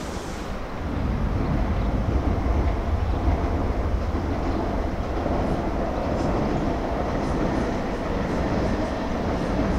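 A train running, a steady low rumble that starts about half a second in, with faint clicks over it later on.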